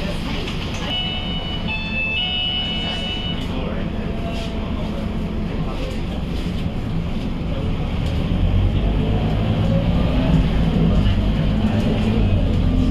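Scania K230UB city bus's diesel engine running, heard on board. About eight seconds in the engine note grows louder and a rising whine comes in as the bus accelerates. A few short, steady high tones sound early on.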